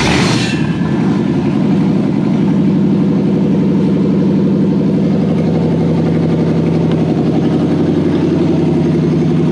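Toyota 1UZ-FE 4.0-litre V8, just fired up and settling within the first second into a steady idle.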